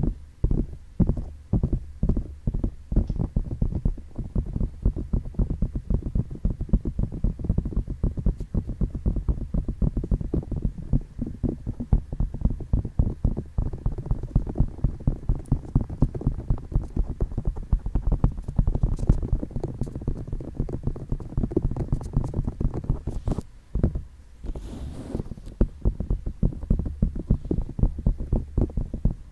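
Fingertips tapping and touching a microphone's ears: rapid, muffled, low taps, a few per second, with a short break near the end followed by a brief rustle.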